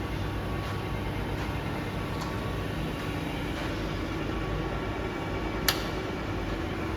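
Steady hum of a Grisetti RU 2000 hydraulic cylindrical grinding machine running, even and free of knocking, with one sharp click about five and a half seconds in.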